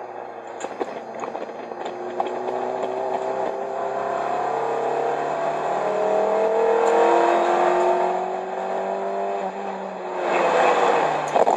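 A 1995 Plymouth Neon ACR's 2.0-litre SOHC four-cylinder, heard from inside the cabin, pulling hard with its note climbing steadily as the car accelerates. About eight seconds in the revs drop off, and near the end a louder rush of engine and road noise comes in as the car turns into a corner.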